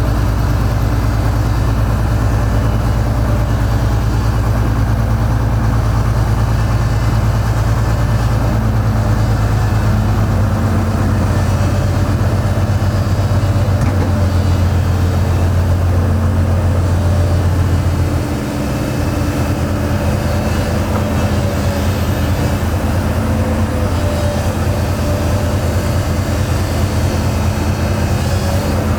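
Heavy machine's diesel engine running steadily with a deep hum. About two-thirds of the way through it drops to a lower, slightly quieter note.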